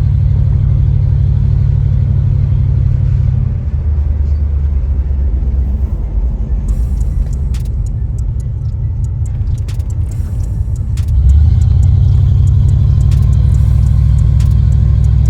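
A car's engine and exhaust rumble low and steady while driving. They ease off about three and a half seconds in and pick up again with a surge near eleven seconds, as the car accelerates.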